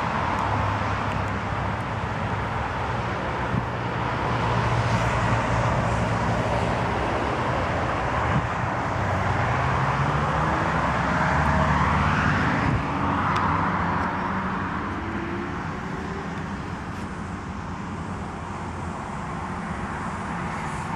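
Porsche 997 Carrera 4S's 3.8-litre flat-six engine running at idle, its note growing louder partway through with a pitch that climbs and then settles back down.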